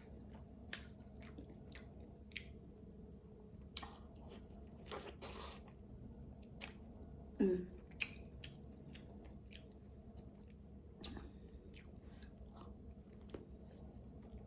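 Close-miked mukbang eating: a person chewing and biting into seafood, with scattered small clicks and crunches. A short closed-mouth 'mm' comes about halfway through.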